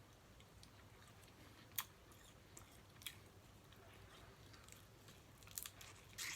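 Quiet eating sounds of snow crab legs: a few short sharp cracks and mouth smacks, about four, spaced a second or more apart.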